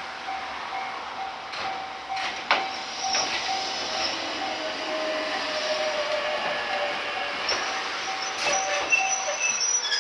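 Ichibata Electric Railway electric train running into the station and slowing, its motor tone falling and its wheels or brakes squealing in the second half. A level-crossing bell rings over it with a repeating tone.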